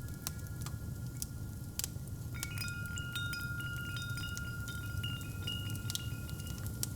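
Wind chimes ringing, with a cluster of new notes struck about two and a half seconds in and one note left ringing, over the sharp crackle and low steady rumble of a fireplace fire.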